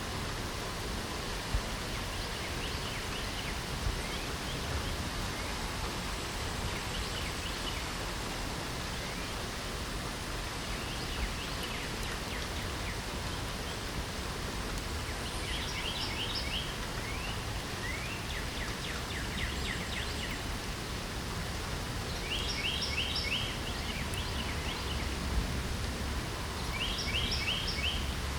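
Steady hiss of light rain, with small songbirds singing short fast trills of repeated high chirps, a few faint ones early on and louder bursts several times in the second half.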